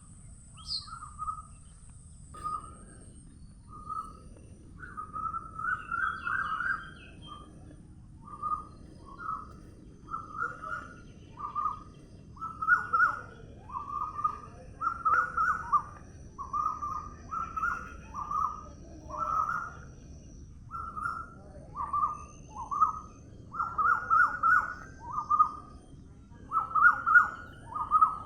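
A bird calling over and over in short, fairly low-pitched notes, about one or two a second, sometimes in quick pairs and triplets, over a faint background hush. A thin, faint, high steady tone sounds behind it at the start and again through the middle.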